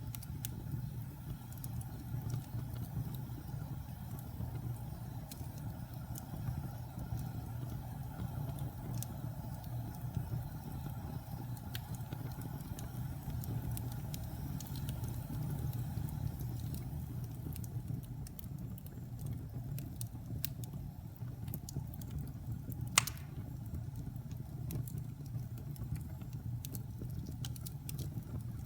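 Wood fire burning in a fireplace: a steady low rumble of flames with scattered small crackles, and one sharp, louder pop about four-fifths of the way through.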